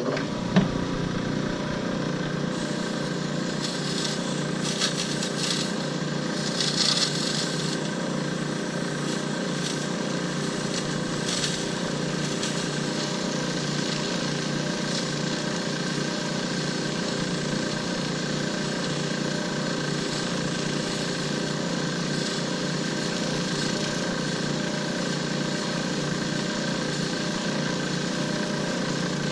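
Small woodturning-type lathe switched on and running at a steady speed, a constant motor hum, with brief hissy scraping noises from the work between about three and eight seconds in.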